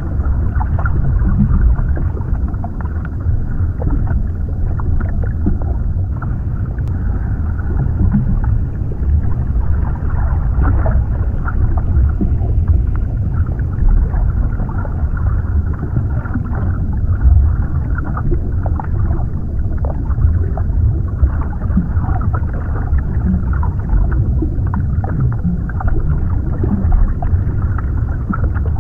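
Underwater ambience: a steady, deep rumbling wash of water, heaviest in the low end, with many small scattered crackles and pops.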